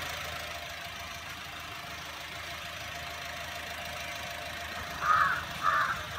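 Honda Amaze's 1.2-litre four-cylinder i-VTEC petrol engine idling with the bonnet closed, a steady quiet hum. About five seconds in, three short chirps sound over it.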